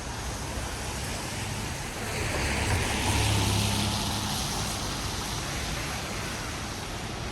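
A motor vehicle passing on a wet street: its tyres hiss through the water and its engine hums, swelling to a peak a few seconds in and fading away, over a steady wash of rainy city noise.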